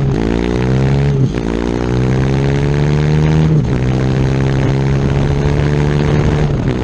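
KTM Duke 390's single-cylinder engine through an Akrapovic exhaust with no dB killer, pulling under acceleration. Its pitch climbs, breaks with two quick upshifts, then holds a steady cruise.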